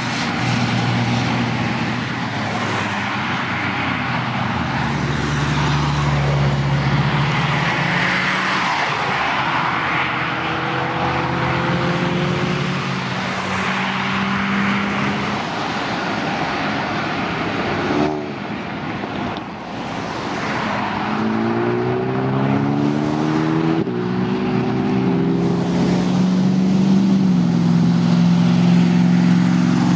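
Car engines running at low speed as cars pull away, with engine pitch climbing around twenty seconds in as one revs up.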